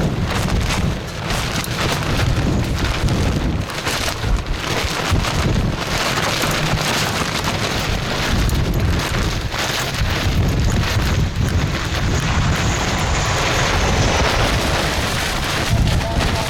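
Strong gusty wind buffeting the microphone: a dense rushing noise with a heavy, uneven low rumble. A faint thin high whine appears about three-quarters of the way through.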